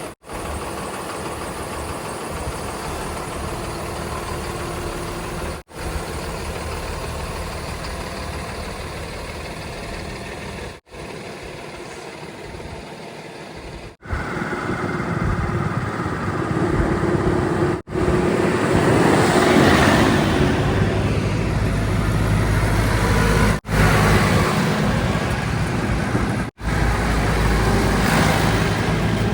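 Heavy diesel engines of earth-moving machinery running, in short cut-together clips. The sound gets louder about halfway through, where an engine revs up and down.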